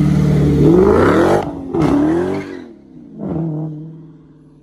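Car engine revved hard in three blips, its pitch climbing and cutting off on the first, rising and falling on the second, with a smaller third blip, then the sound fades away.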